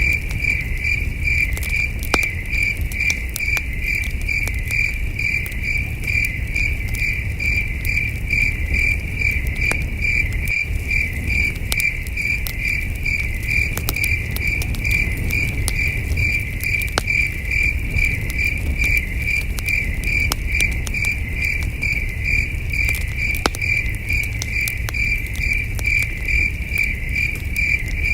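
Crickets chirping in an even rhythm of about three chirps a second, with the scattered pops and crackle of a campfire and a low steady rumble beneath.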